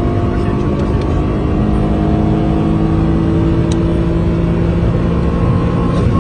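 Tuned Lada four-cylinder engine running hard at a nearly steady pitch, with a dense low rumble underneath.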